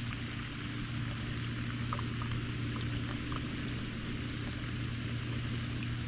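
Boat motor running steadily with a constant low hum, a light hiss of water and air, and a few faint small ticks.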